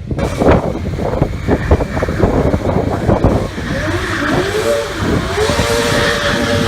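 Stunt motorcycle engine revved hard in quick blips, then its pitch swoops up and down repeatedly while a tyre squeal builds in the second half.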